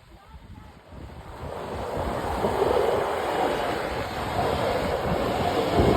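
2500 pickup truck driving hard, a loud rumbling noise building up about a second in and then holding.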